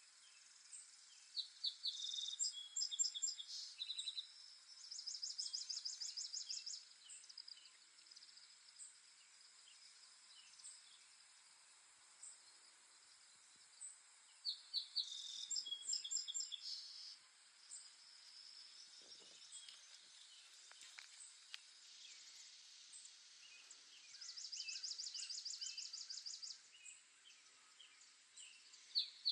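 Songbirds singing over a steady high hiss. Twice a bird gives a short run of quick high notes followed by a fast, even trill, and a third phrase begins at the very end, with faint scattered chirps in between.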